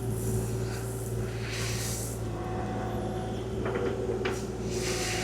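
Kubota KX040-4 mini excavator's diesel engine running steadily under hydraulic load as the blade is worked. Two brief hissing surges and a few light clicks come from the machine's hydraulics and controls.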